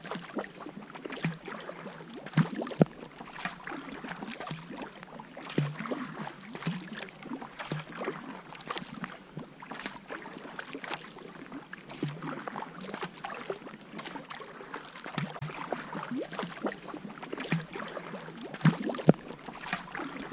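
Kayak paddling on lake water: paddle blades dipping and splashing, with water dripping and lapping at the hull in irregular small splashes.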